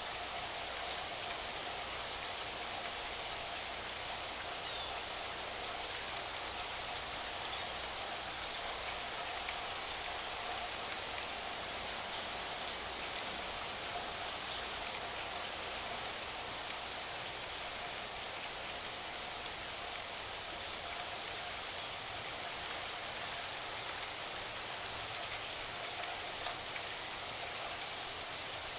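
Steady rain: an even hiss with a dense patter of drops.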